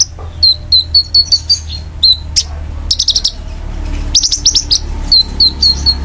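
A songbird singing sharp, high chirps and quick downstrokes, breaking into a fast, even run of repeated notes near the end, over a steady low hum.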